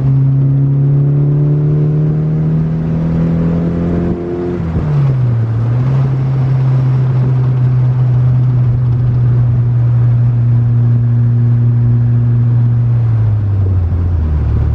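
Built 2.1-litre 16-valve four-cylinder engine of a 1988 VW Cabriolet pulling under acceleration. Its pitch climbs, drops at a gear change about four and a half seconds in, climbs slowly again, and falls once more near the end.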